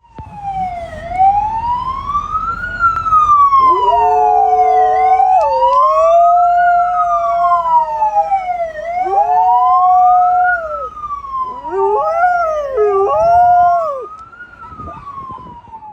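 A siren wailing, sweeping slowly up and down, with a dog howling along to it in several long howls, the last two shorter.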